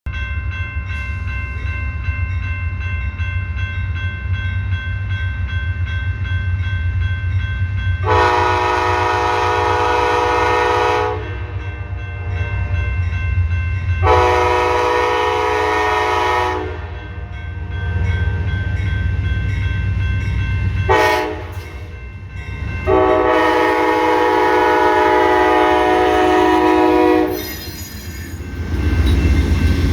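Amtrak passenger train's diesel locomotive approaching with a steady low rumble, sounding its horn in the grade-crossing pattern: long, long, short, long. The horn is a loud multi-note chord, and the last long blast is held about four seconds.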